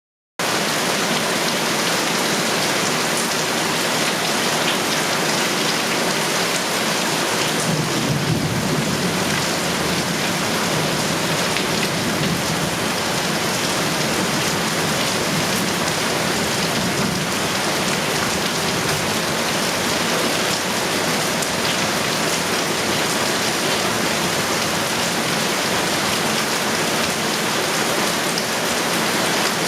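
Heavy rain pouring steadily, with a low rumble of thunder swelling about eight seconds in.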